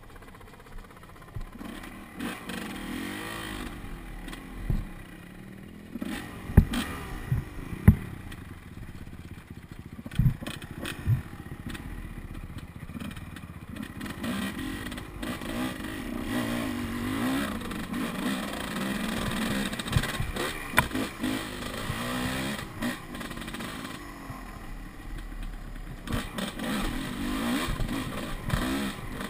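Enduro dirt bike engine revving up and down as it is ridden over rough trail, with several sharp knocks and clatter about a quarter to a third of the way in.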